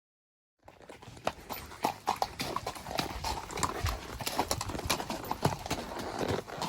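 Hoofbeats of a spotted saddle horse, a quick, continuous clip-clop of many sharp hoof strikes. The sound cuts in suddenly under a second in.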